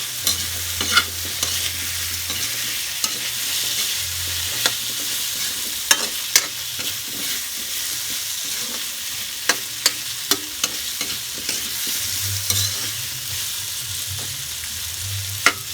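Diced potatoes and carrots sizzling as they fry in oil in a pan, with a steady hiss. A cooking utensil clinks and scrapes against the pan now and then as they are stirred.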